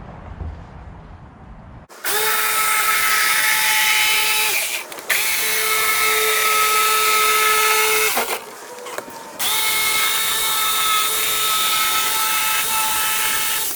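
Electric power saw cutting along a marked line on a boat panel: a steady, high motor whine in three runs, with a brief dip about five seconds in and a pause of about a second near the middle.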